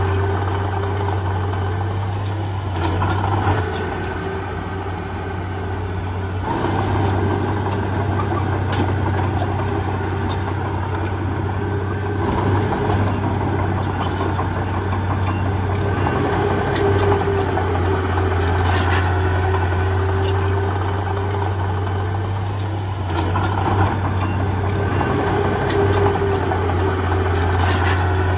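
Heavy diesel engine of earthmoving machinery running continuously, with a deep steady hum and a thin whine above it. The sound dips and swells a few times as the load changes.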